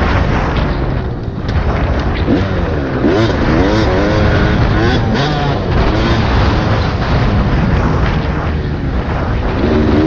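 Dirt bike engine being ridden, its pitch sweeping up and down repeatedly as the throttle is worked, over a constant rush of noise.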